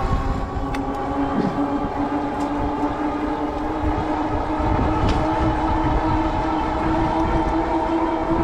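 Bafang 750-watt rear hub motor of a fat-tire e-bike whining under pedal assist, its pitch rising slowly as speed builds, over low wind rumble on the microphone.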